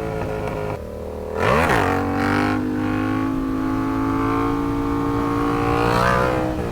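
Sportbike engine running under the rider, with a quick rev that sweeps up and back down about a second and a half in, then a steady, higher engine note held for several seconds before it drops back near the end.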